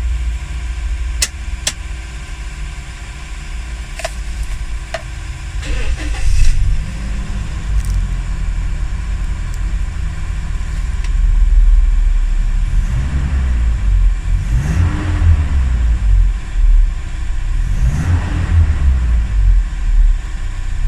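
Gasoline Toyota Innova four-cylinder engine running after a minor tune-up (new spark plugs, air filter and fuel filter), blipped up and back down several times in the second half, with a few sharp clicks in the first seconds. It runs with no misfire.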